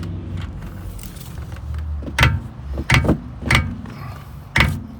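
Four sharp metallic clanks of a hammer knocking a wrench on a tight rear brake caliper bolt to break it loose.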